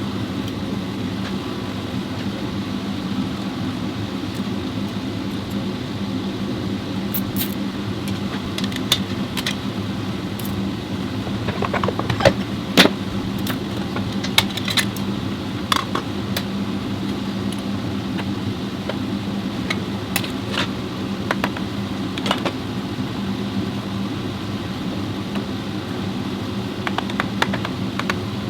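Scattered metallic clinks and taps of tools and transmission parts being handled, bunched in the middle and again near the end. Under them runs a steady low machine hum.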